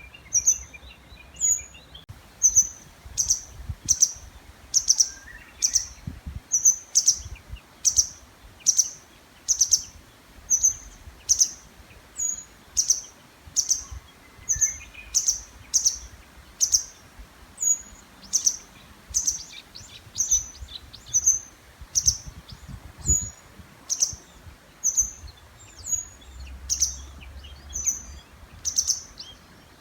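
A songbird repeating one short, high, loud call over and over, a little more than once a second. Fainter, lower bird song comes in behind it twice.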